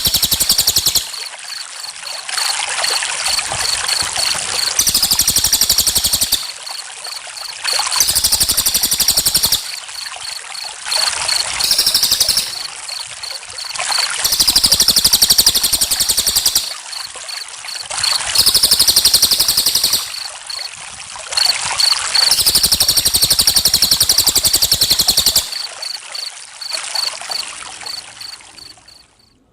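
Crickets chirping in repeated high-pitched trilling bursts of one to two seconds, over trickling water. The sound fades out near the end.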